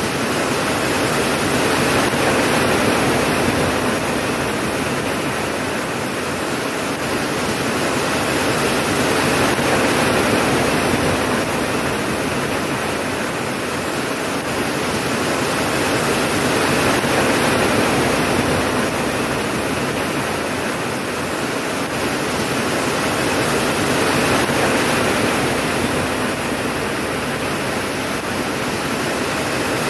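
Heavy rain falling steadily, a dense even hiss that swells and eases gently about every seven seconds, with no thunderclaps.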